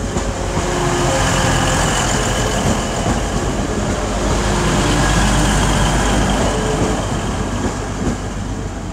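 A Class 185 diesel multiple unit passing close by over a level crossing: its diesel engines and wheels on the rails make a loud, steady rumble that eases a little near the end.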